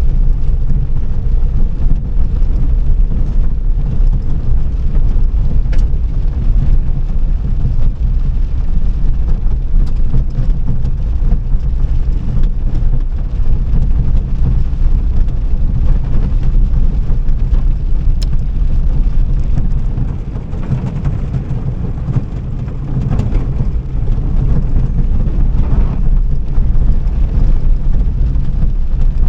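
Car being driven: a steady, heavy low rumble of engine and road noise, easing briefly about twenty seconds in.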